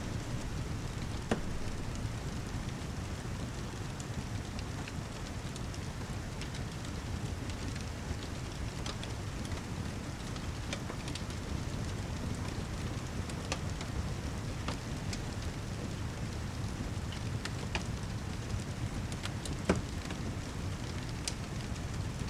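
Steady heavy rain with a fireplace crackling, scattered sharp pops over it; the two loudest pops come about a second in and near the end.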